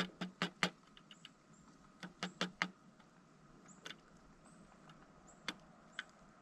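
Pileated woodpecker pecking at a suet feeder: sharp taps in two quick runs of about four, then a few single taps.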